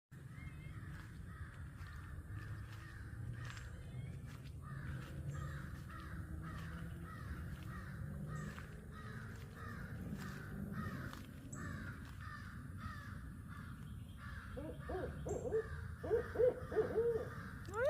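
Barred owl calling: a run of loud, pitched hoots in the last few seconds. Underneath is a steady chorus of rapid, repeating chirps.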